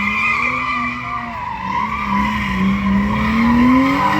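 Car tires squealing continuously over a running engine, as in a burnout at a car meet; the engine note climbs toward the end.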